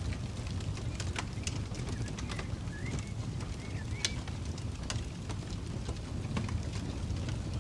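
Campfire crackling, with irregular sharp pops over a steady low rumble. A bird chirps a few short wavering notes around the middle.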